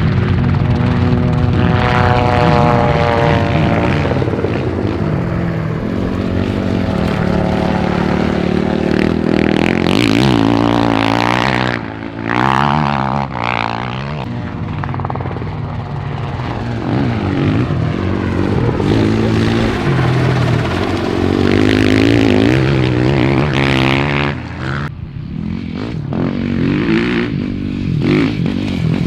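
Dirt bike engine revving up and down while riding, its pitch rising and falling with throttle and gear changes, with brief drops in the engine note about twelve seconds in and again near the end.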